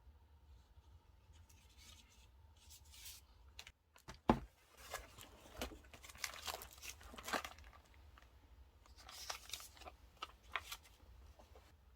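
A single light knock about four seconds in, then repeated short rasps of paper stationery being torn and peeled by hand, in two spells.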